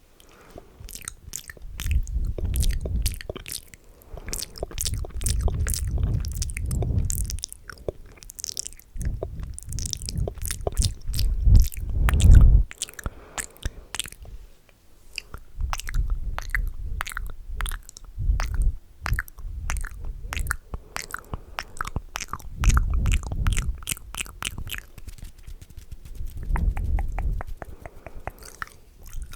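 Close-miked ASMR mouth sounds: rapid wet clicks and smacks, with low rumbling swells that come and go between busier stretches.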